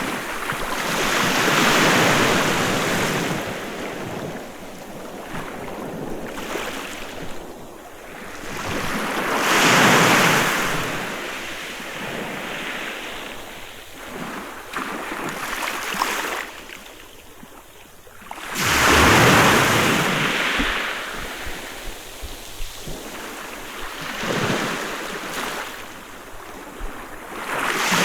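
Sea waves breaking on a beach and washing back. The surf swells and fades in slow surges, the biggest about every eight to nine seconds, with smaller ones between.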